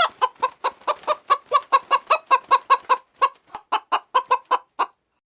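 A chicken clucking in a fast, even run of short calls, about five a second, cutting off abruptly near the end.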